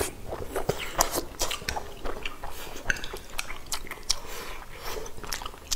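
Close-miked chewing and eating sounds of people eating rice and stir-fried dishes, with many short, irregular clicks.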